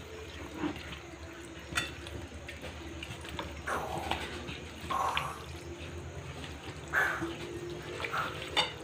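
Quiet kitchen handling sounds of meat being mixed with a spice mixture in a bowl: a few soft, wet squishing swells and scattered light clicks of a utensil against the dish, over a faint steady hum.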